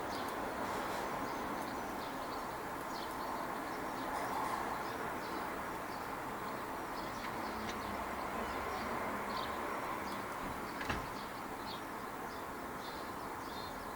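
Small birds chirping in short, scattered calls over a steady background hum, with a single sharp tap about eleven seconds in.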